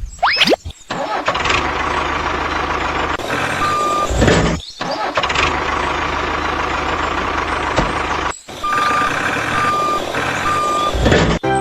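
Truck engine running with a reversing alarm beeping: one beep about four seconds in and three evenly spaced beeps near the end. The sound breaks off abruptly a few times.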